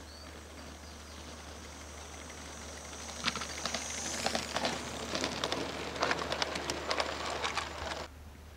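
16mm scale model locomotive running on its track, with a dense run of irregular clicks and chuffs that starts about three seconds in and stops abruptly near the end, over a steady low hum.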